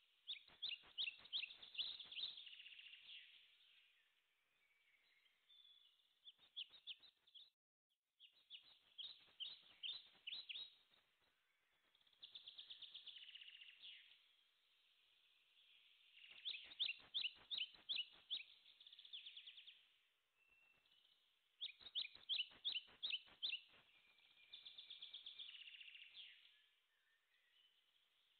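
A songbird singing, repeating short phrases of rapid trills every few seconds.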